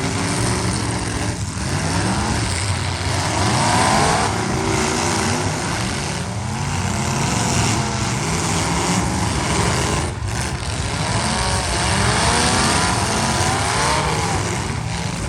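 Several demolition derby cars' engines running and revving at once, many overlapping engine notes rising and falling, loud and continuous.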